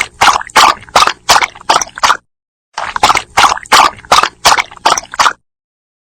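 A dog lapping water in a quick, even rhythm of about three laps a second: two runs of lapping, the second starting after a short break.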